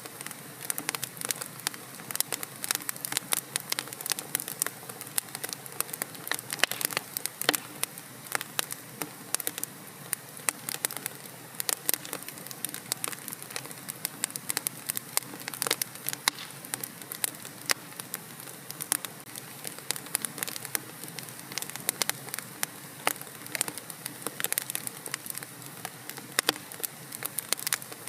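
Wood fire in a fireplace crackling and popping, with many irregular sharp snaps over a steady hiss.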